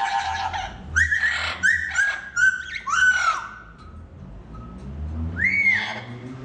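Pet parrot squawking: a quick series of short, harsh calls, each dropping in pitch at its end, then one more call near the end.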